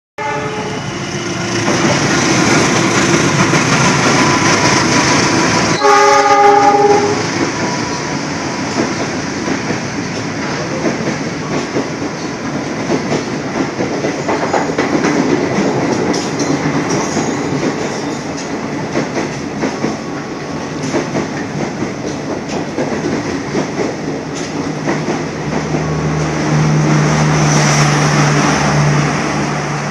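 Train running past with a steady rumble and the clatter of wheels on the rails, and a horn blast of about a second roughly six seconds in.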